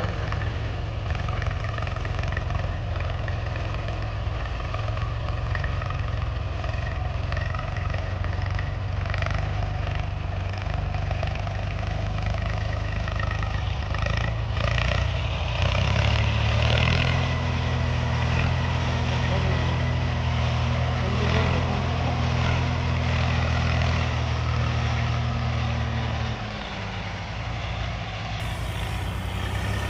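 Tractor engine running steadily. About halfway through it grows louder with a firmer, steady low note and holds there for about ten seconds, then drops back near the end.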